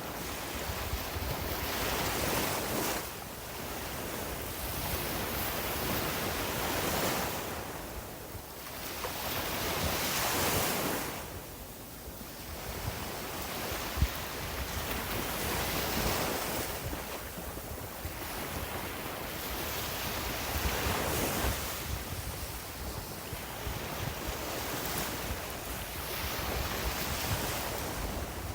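Small sea waves breaking and washing up on a sandy beach, the surf swelling and ebbing every three to five seconds, with wind rumbling on the microphone. A single short tick about halfway through.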